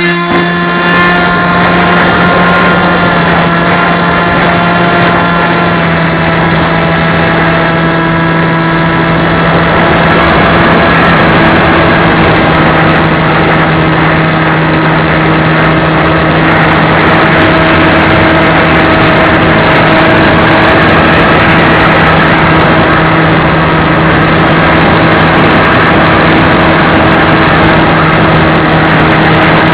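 Radio-controlled model airplane's motor running at a steady high-pitched drone, with a rushing wind noise that builds over the first ten seconds or so and then holds.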